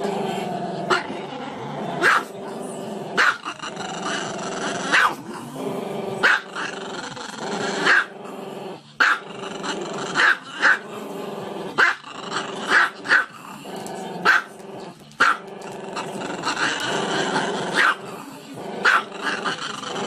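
Small dog howling in a long drawn-out, wavering voice, broken by sharp barks about once or twice a second.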